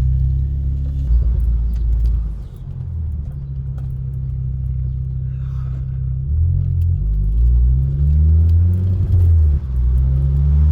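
Ford Focus ST engine running, its revs rising in two climbs as the car accelerates.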